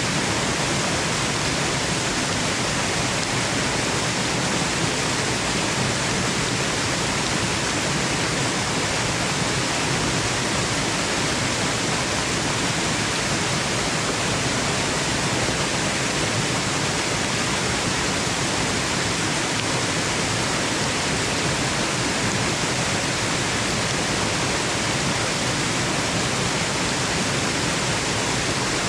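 Waterfall: a steady, unbroken rush of falling water, even and constant throughout, used as white noise for sleep.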